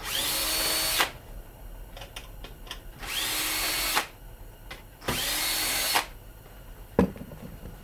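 A power drill run in three short bursts of about a second each, every one spinning up with a rising whine and then holding steady, as screws are driven out of an air fryer housing. A single sharp knock follows near the end.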